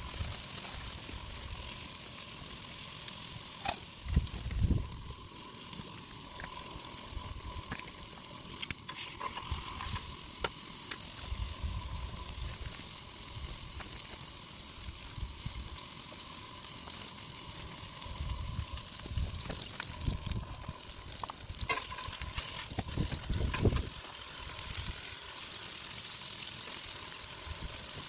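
Steak sizzling in a frying pan, a steady hiss with occasional small clicks, under low rumbling gusts of wind against the tent around four seconds in and again around twenty seconds in.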